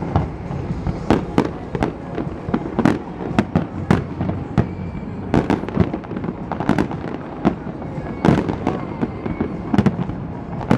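Aerial fireworks bursting in rapid, irregular succession, several sharp bangs a second, each with a short ringing tail.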